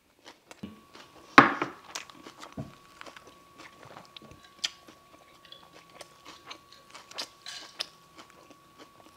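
Close-up biting and chewing of a fresh rice-paper roll wrapped around lettuce, sesame leaves and tofu noodles. There is one sharp bite about a second and a half in, then a run of small chewing clicks and crunches. A faint steady tone hums underneath.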